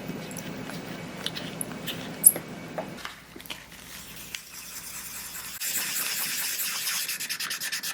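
Small clicks and handling taps, then, from a little past halfway, quick back-and-forth rubbing strokes on the watch case as it is cleaned.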